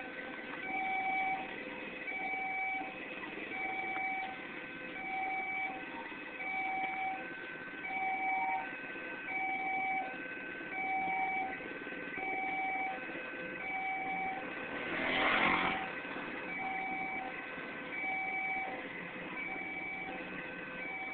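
Railway level-crossing warning alarm sounding a repeating two-tone electronic ding-dong, about one tone a second, the signal that a train is approaching and the barriers are down. A brief louder rushing noise swells and fades about fifteen seconds in.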